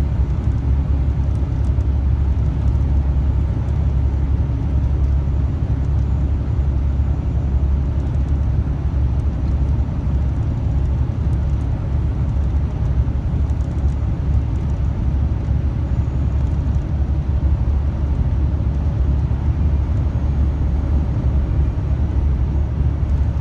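Steady low drone of a long-haul truck's diesel engine and road noise heard inside the cab while driving.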